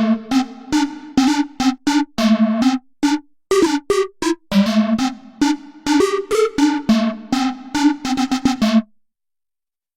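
Waldorf Pulse 2 monophonic analog synthesizer playing a preset: a quick melodic run of short, plucky notes with bright tops that die away fast. The notes stop about nine seconds in.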